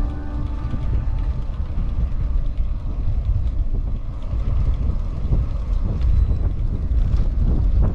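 Wind rumbling and buffeting on the microphone of a camera on a moving bicycle, a steady low fluctuating rumble.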